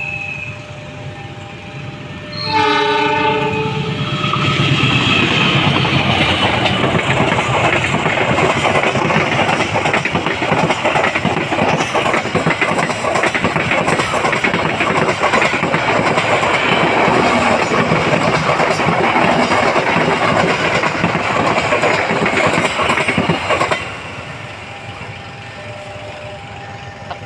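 A train horn sounds briefly about two and a half seconds in, then a train passes close by for about twenty seconds with loud rumbling and clattering wheels, dropping away suddenly near the end.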